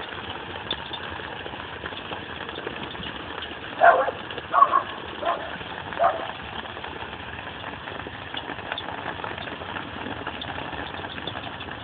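Hail falling steadily: a dense hiss with fine ticks as hailstones strike the ground and surfaces. Four short calls sound about four to six seconds in.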